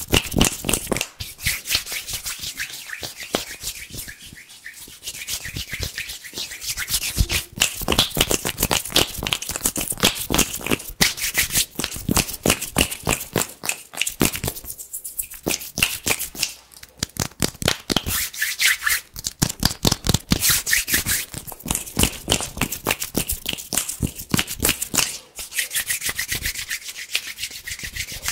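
Hands rubbing and swishing against each other in fast, crisp strokes close to the microphone, many strokes a second with a couple of brief pauses.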